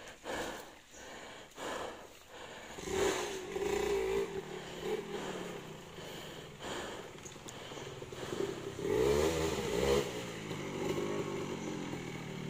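Dirt bike engine running under load on a steep muddy climb, revving up and dropping back about nine to ten seconds in.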